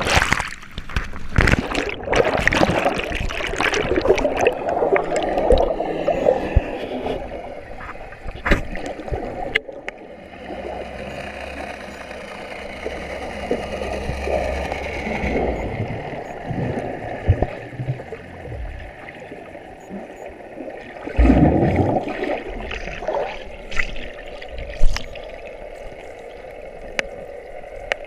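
Water gurgling and sloshing around a boat, with irregular splashes and knocks and louder surges now and then.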